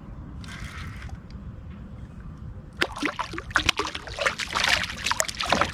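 Water splashing and dripping beside a kayak, a dense run of irregular sharp splashes starting about three seconds in, over a low steady rumble.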